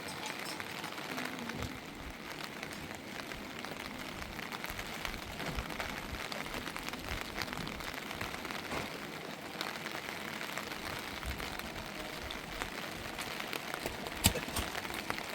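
Steady rain falling on surfaces, an even hiss full of small drop ticks, with one sharp knock near the end.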